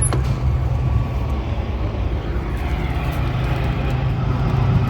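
A vehicle running, a steady low rumble.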